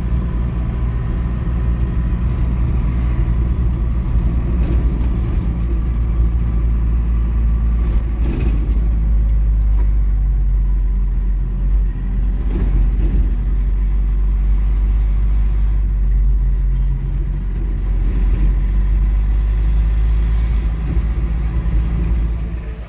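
A motor vehicle on the move: a steady, loud low rumble of engine and road noise.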